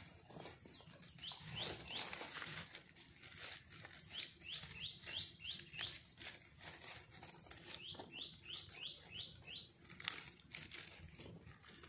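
A bird calling in runs of short rising chirps, about four a second, three times over, against rustling and crackling and a steady high hiss. A sharper crack comes about ten seconds in.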